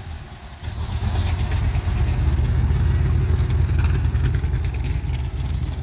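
A car engine running with a loud, low, pulsing rumble that swells up about half a second in and then holds steady.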